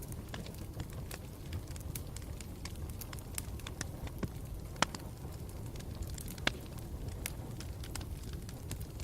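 Wood campfire burning with a steady low rumble and frequent irregular crackles and pops, two sharper pops about five and six and a half seconds in.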